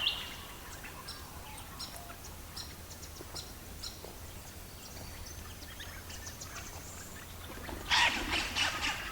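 Birds chirping: a series of short, high chirps repeated about every half second. About eight seconds in, a louder, busier burst of chirping follows.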